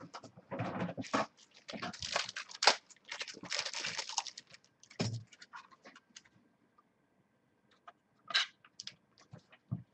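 Rustling and clicking of a trading card being handled and fitted into a plastic magnetic one-touch card holder. Busy, dense handling for about the first five seconds, then a few scattered clicks, the sharpest a little after eight seconds.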